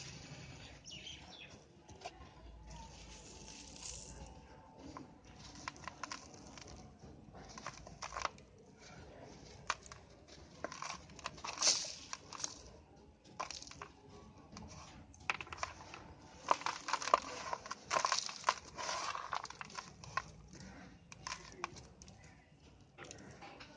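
Moulded shapes of dry brown dirt crumbling and crunching. They give irregular crackles and crunches, thickest about halfway through and again over much of the last third.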